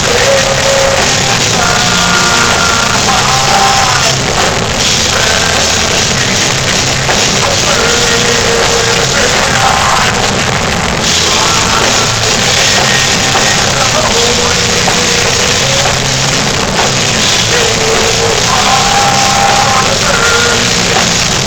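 A heavy metal band playing live: distorted electric guitars and a drum kit, loud and dense, with held melodic notes recurring over it. The recording is muddy and distorted.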